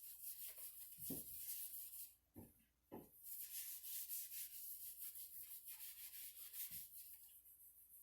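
Repeated hand strokes rubbing over the cedar chest's wood, a faint scratchy swishing. A few light knocks come about one, two and a half and three seconds in.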